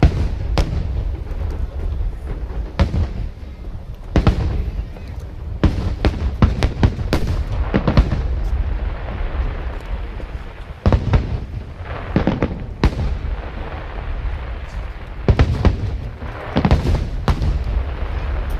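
Aerial fireworks bursting in rapid volleys: many sharp bangs and crackles over a continuous deep rumble, with brief lulls between the volleys.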